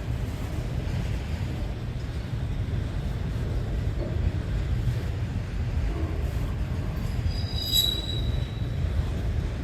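CN freight train Z148 rolling past with a steady low rumble from its cars. About seven and a half seconds in, a wheel squeals briefly in a high ringing tone.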